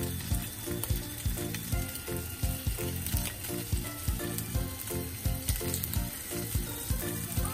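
Chicken and SPAM patty mixture sizzling in oil in a non-stick frying pan as more mounds go in, over background music with a steady beat.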